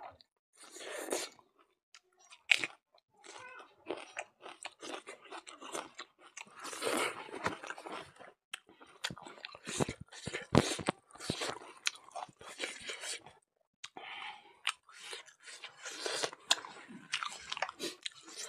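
A man chewing mouthfuls of buffalo innards curry and rice, with many sharp, wet mouth smacks and clicks in quick, irregular runs, broken by a few short pauses.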